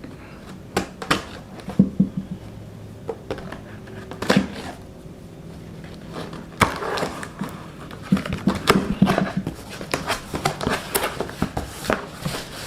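A cardboard box and its packaging being opened and handled: irregular rustles, scrapes and knocks, sparse at first and busier from about halfway.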